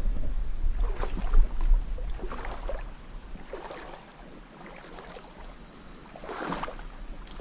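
Creek water splashing and sloshing in irregular bursts as someone wades through the shallows, with a low rumble of wind on the microphone during the first few seconds.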